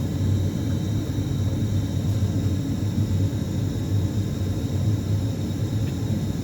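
ATR 72-600 turboprop engine running, heard from inside the cabin as a steady low rumble with a faint high whine above it.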